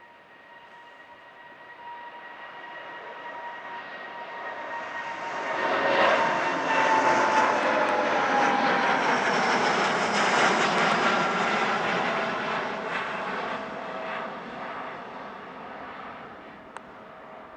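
A departing airliner's engines passing by: the noise swells over about six seconds to a peak, holds for several seconds, then fades away, with a high whine that drops slightly in pitch as it goes past.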